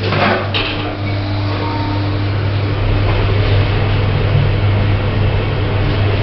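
Associated Lift Services passenger lift travelling in its shaft: a steady low hum from the car and its drive, with a brief higher tone near the start and a deeper hum joining about three seconds in.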